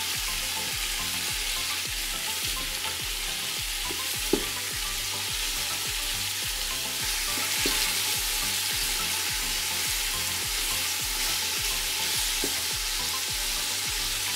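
Chicken breast chunks and onions sizzling in hot oil in an Instant Pot's stainless steel inner pot on sauté mode, stirred and turned with a wooden spatula. One sharp knock about four seconds in.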